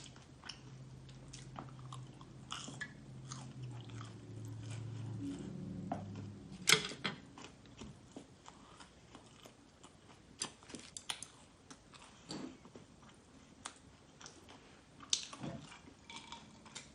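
Close-up chewing and biting of crunchy Korean spicy garlic fried chicken (kkanpunggi), with scattered sharp crunches, the loudest about seven seconds in.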